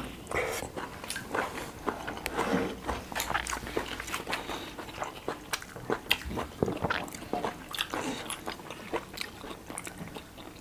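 A person eating close to the microphone: biting and chewing food, with many small irregular clicks and smacks of the mouth.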